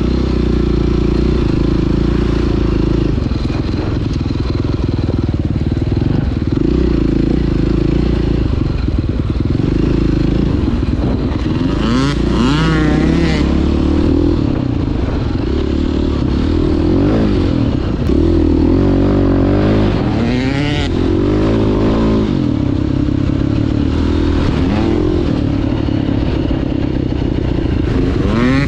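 Dirt bike engine, a 2009 KTM 530 EXC's four-stroke single, riding on a trail under varying throttle. The revs rise and fall several times, with sharper climbs in pitch about twelve seconds in, around seventeen and twenty seconds, and near the end.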